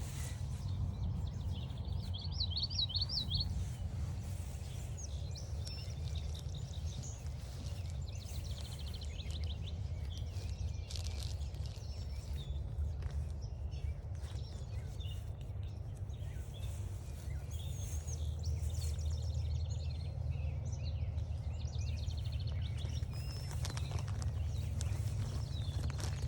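Several songbirds calling and singing in short notes and trills, one rapid trill about two seconds in, over a steady low rumble.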